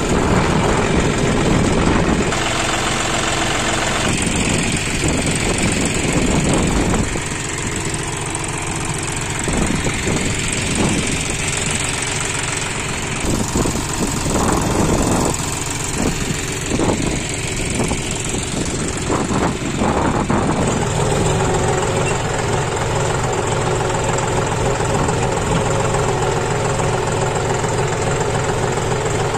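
John Deere 5045D tractor's three-cylinder diesel engine running, uneven through the middle and settling into a steady run near the end.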